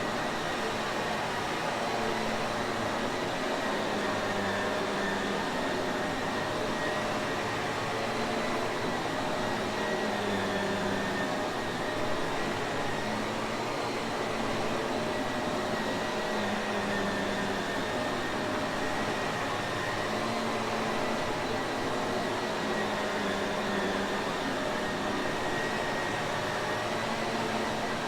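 Shark Navigator upright vacuum cleaner running steadily: a constant rush of air with a steady high whine from the motor.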